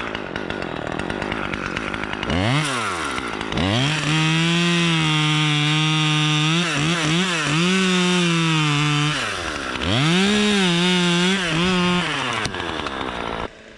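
Two-stroke chainsaw revving: a short blip, then held at high revs for several seconds with brief dips. It drops back, revs up again, and cuts off suddenly near the end.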